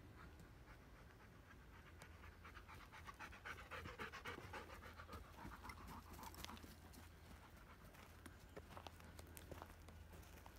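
Golden retriever panting, faint, loudest a few seconds in, with scattered light clicks near the end.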